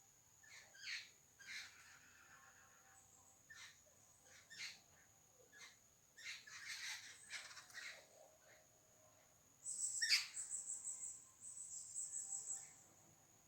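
Birds calling with short chirps and notes over a steady, thin, high-pitched hum. About ten seconds in, a louder, rapidly pulsing high-pitched trill starts and carries on in runs to the end.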